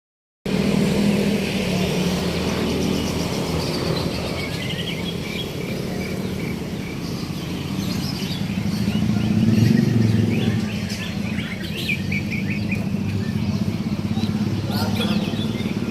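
Several caged songbirds chirping and trilling at a bird-singing contest, many quick high calls overlapping, over a low steady hum that swells about ten seconds in.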